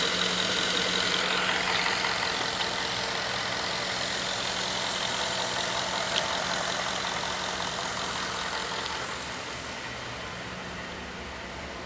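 Ford 5.0 Coyote DOHC V8 in a 2011 F-150 idling steadily, growing fainter over the last few seconds. A brief click sounds about six seconds in.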